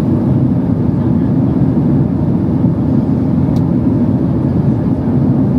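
Steady low rumble of a Boeing 767-300's cabin in flight: jet engine and airflow noise heard from a passenger seat. A faint click about three and a half seconds in.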